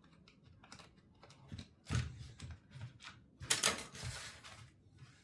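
Small metal parts and hand tools clicking and clattering while a small chainsaw engine is taken apart, with a sharp click about two seconds in and a brief rattling scrape about three and a half seconds in.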